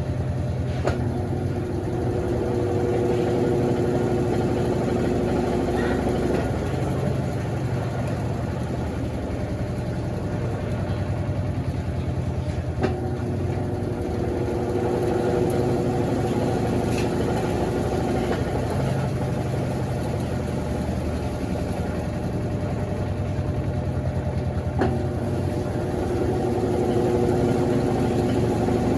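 Consul CWS12 12 kg washing machine running through its drain stage before the first rinse: a steady low hum, with a higher motor whine that comes on with a click about a second in, again near the middle, and again near the end, each time running about six seconds.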